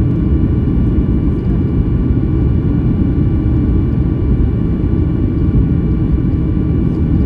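Jet airliner noise from a flydubai Boeing 737: a steady, loud rumble with several faint, even whining tones above it, holding constant throughout.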